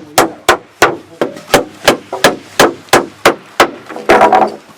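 Rapid, even hammer strikes, about three a second, that stop about three and a half seconds in. They are followed by a brief, louder, longer sound with some tone in it.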